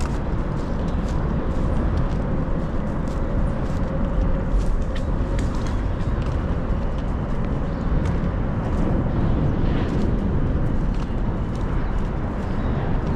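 Highway traffic on the I-480 bridge overhead: a steady, loud low rumble of tyres and engines.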